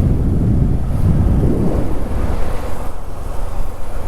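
Wind buffeting the microphone: a loud, gusty low rumble with no steady tone.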